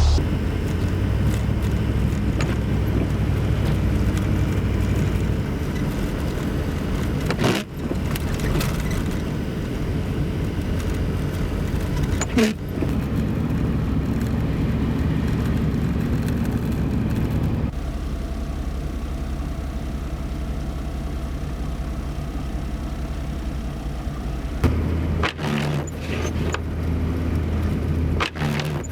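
A car driving: a steady low rumble of engine and road noise that changes abruptly several times.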